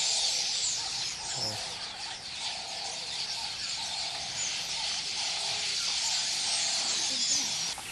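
A dense chorus of bird chirps and calls, many overlapping, with a lower call repeating every half second or so underneath.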